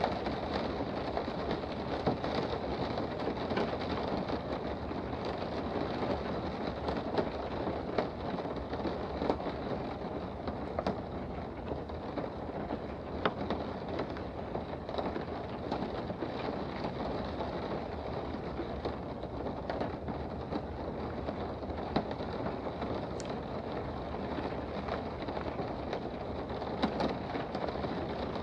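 Steady rain heard from indoors, with scattered sharp drops ticking against a surface through it.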